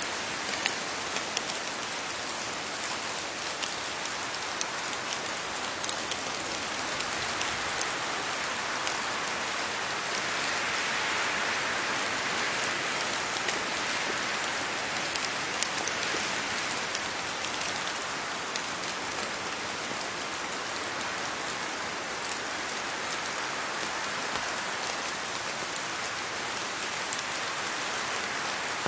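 Steady rain falling on leaves: a constant hiss of rainfall with many small, sharp drop taps scattered through it.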